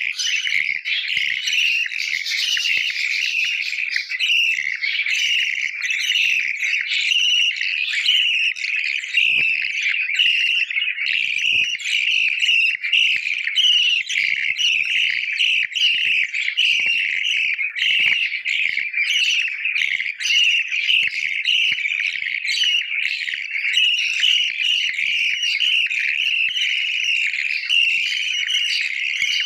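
Budgies (budgerigars) chirping and chattering without a break, a dense high-pitched twittering.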